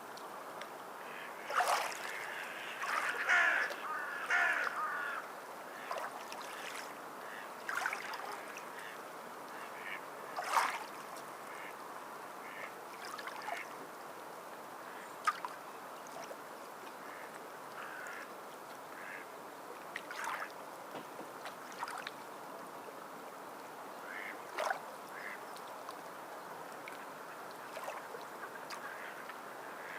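Waterbirds calling now and then, in a flurry of several calls a few seconds in and then single calls, over a steady wash of water.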